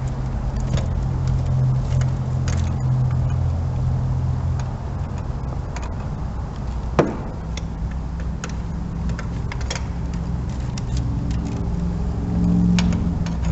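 Scattered metallic clicks and clinks of a hand ratchet and socket working out a spark plug, over a steady low hum. One brief sharp sound comes about seven seconds in.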